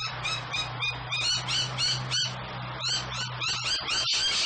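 Rainbow lorikeets screeching and chattering: many short, shrill calls in quick succession, over a low steady hum that stops near the end.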